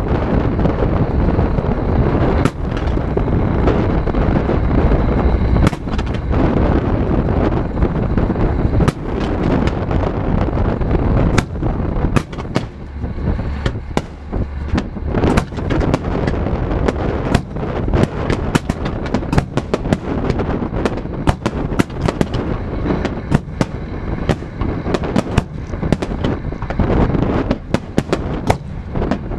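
Fireworks display: a continuous rumble of shell bursts, with sharp cracks that come thick and fast from about halfway through.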